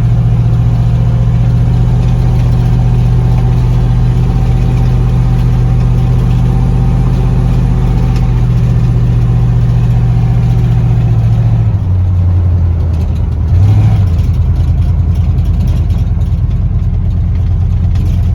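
1989 Chevy stepside pickup's engine and exhaust droning steadily while driving. About twelve seconds in the drone drops to a lower pitch, rises briefly a second or so later, then holds steady again.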